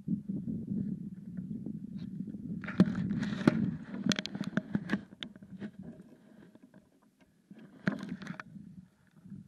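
Mountain bike riding over a rough track: a low, uneven rumble with two spells of rattling and clicking, the louder one a few seconds in and a shorter one near the end.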